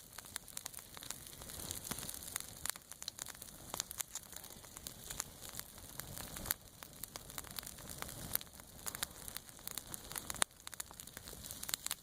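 Freezing rain falling steadily, with dense, irregular sharp ticks and crackles as it strikes ice-coated surfaces, and a couple of louder ticks about midway and near the end.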